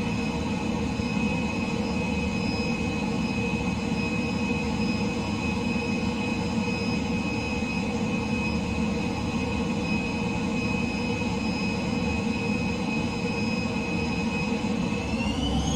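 F-15 jet engines running steadily with a low rumble and a high, constant whine. Near the end the whine rises in pitch and gets louder as the engines spool up.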